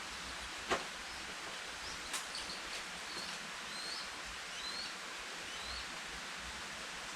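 Steady rainforest background hiss with a few short bird chirps between about two and six seconds in. A sharp click sounds about a second in, and a softer one about two seconds in.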